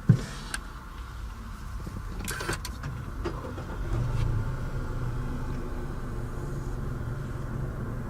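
A sharp thump, then a few clicks and a short rustle inside a car, followed from about four seconds in by a steady low hum.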